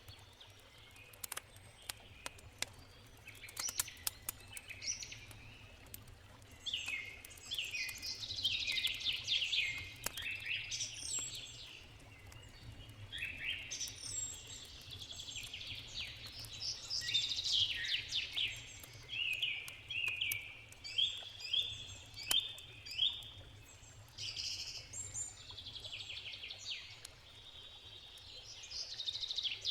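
Songbirds chirping and singing in quick, repeated phrases, with scattered sharp crackles of a wood campfire and a faint steady low background noise.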